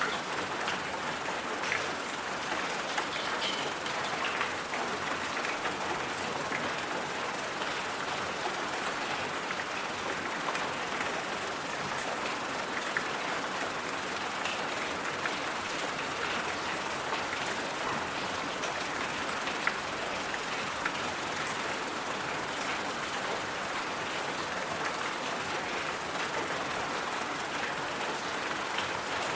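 Steady white-noise hiss, even and unchanging, with faint scattered ticks through it.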